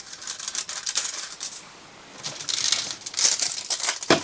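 Sheet of aluminium foil crinkling as it is handled and cut to shape, a run of rapid crackly rustles with a short lull midway and a sharper click near the end.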